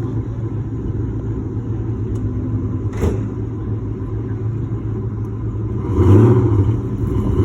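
2003 Ford Mustang GT's 4.6-litre V8 running with a steady low rumble, swelling louder twice near the end as it pulls away. There is a short click about three seconds in.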